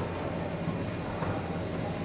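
Steady low rumble of jet aircraft engines running at the airport, with a constant low hum.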